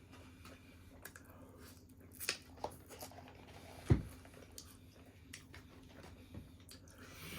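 A person eating: faint chewing and squishy handling sounds, with a few sharp clicks and one low thump about four seconds in.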